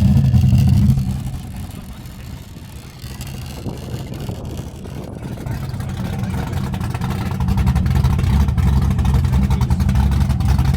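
Car engine running with a deep, low sound. It drops away sharply about a second in, then builds back up steadily and is loud again through the second half.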